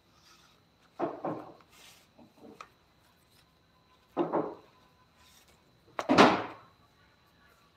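Wooden pieces being handled in a workshop: four short separate handling sounds, the loudest about six seconds in.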